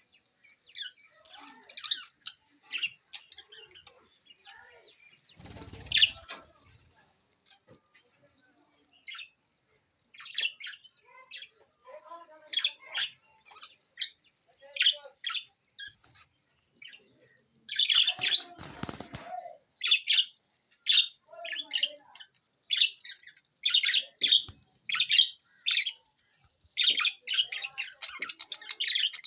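Budgerigars chirping and chattering in quick, high, twittering calls throughout. Two brief noisy bursts stand out, one about six seconds in and one past the middle.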